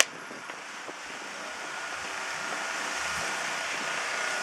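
Wind rushing over the microphone, a steady noise that builds slowly, after a sharp click at the very start.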